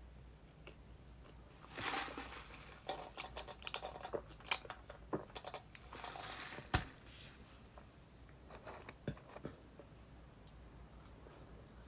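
Close-miked eating sounds: a person chewing food, with a run of sharp clicks and crackles between about two and seven seconds in, then quieter ticks.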